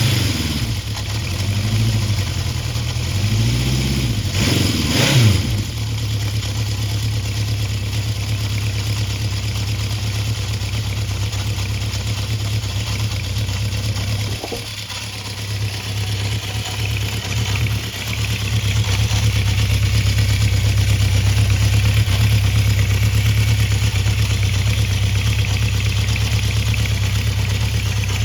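1972 Honda CB750's inline-four running on choke just after a cold start. The revs rise and fall several times at first, then it settles into a steady fast idle that dips briefly and then comes up a little stronger for the rest of the time.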